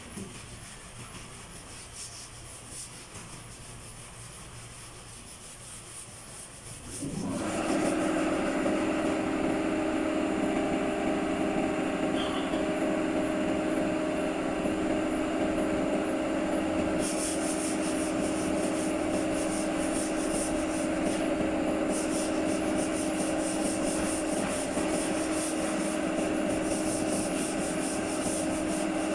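A power sander starts about seven seconds in and runs steadily with a held tone, sanding a vehicle door panel.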